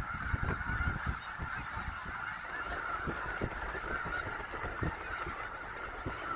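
A huge flock of snow geese and Canada geese calling together, a dense, continuous chorus of honks and yelps.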